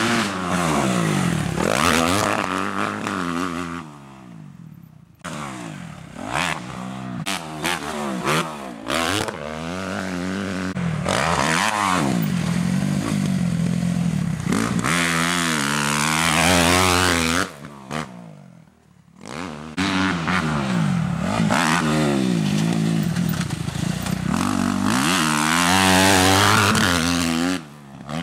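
Kawasaki KX250F motocross bike's four-stroke single-cylinder engine revving up and dropping back again and again as it is ridden round the track. There are short lulls in the engine note about four seconds in and again after about eighteen seconds.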